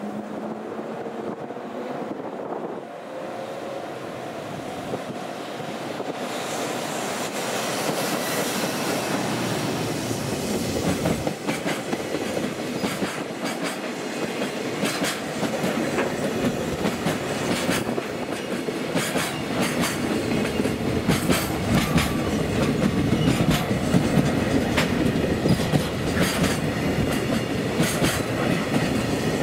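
Container freight train passing close by, hauled by an EF210 electric locomotive. The sound swells over the first several seconds as the train arrives, then the wheels of the container wagons clatter over the rail joints in a steady clickety-clack.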